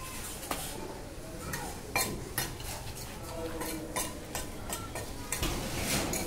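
Metal hand tool scraping and clinking against hard building material, with irregular sharp taps and knocks.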